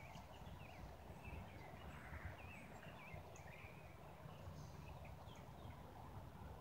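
Faint outdoor ambience: scattered bird chirps and twittering over a low, steady rumble.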